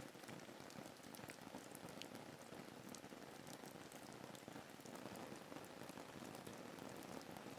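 Faint, steady rain ambience: an even hiss of falling rain with many small drop taps scattered through it.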